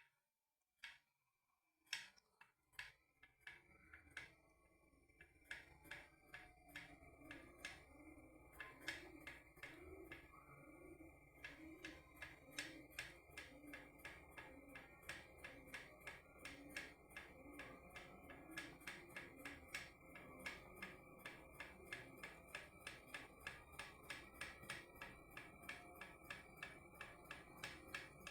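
Rochedo pressure cooker tapping and knocking against its handle as it heats up before reaching pressure. The metallic clicks start sparse, then quicken into a steady ticking of about two to three a second, with a low steady rush building underneath.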